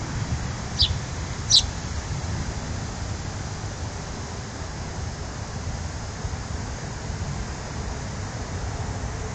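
Two quick high bird chirps, each falling in pitch, a little under a second apart near the start, over a steady low rumble.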